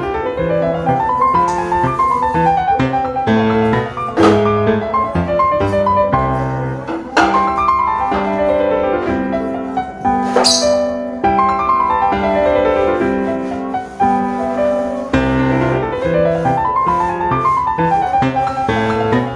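Background piano music: runs of notes climbing and falling over held bass notes. A brief high sound cuts in about halfway through.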